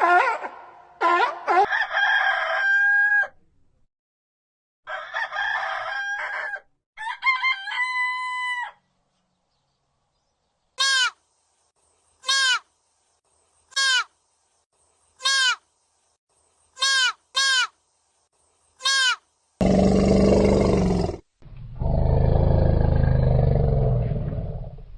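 Rooster crowing several times, each crow ending in a held note. Then comes a run of seven short, sharp calls about a second and a half apart. Near the end there are two loud, rough, low sounds.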